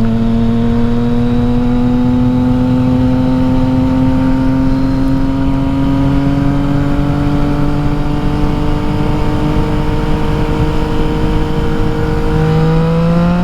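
2021 Yamaha XSR900's inline-three engine through an Akrapovič exhaust, pulling in gear with a steady drone, its pitch slowly rising, then rising sharply near the end.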